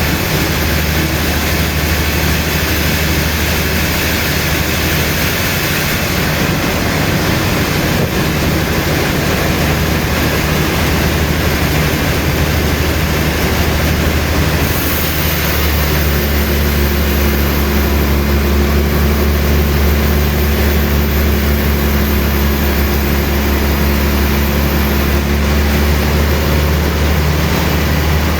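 Sawmill machinery running with a steady, loud mechanical rumble. A humming tone comes in about halfway through and fades out near the end.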